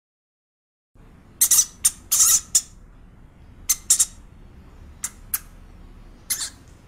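A pet rat at its food dish making a series of short, sharp, high-pitched sounds in small clusters, starting about a second in.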